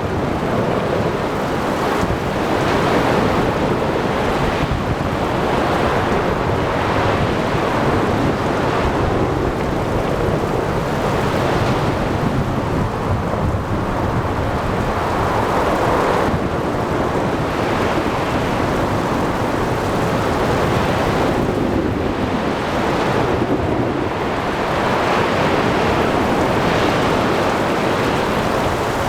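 Ocean storm ambience: waves surging and breaking in slow, uneven swells under steady wind and rain, with rumbling thunder.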